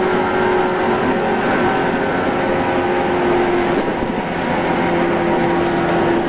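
JR East 113 series electric train running, recorded on cassette tape: a steady rumble of wheels on rails with the traction motors and gears holding a steady hum of several tones.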